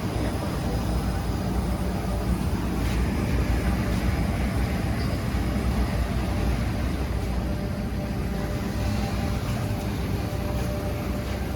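Flexo printing machine for paper cup fans running steadily, a continuous mechanical noise with a deep hum and no clear breaks.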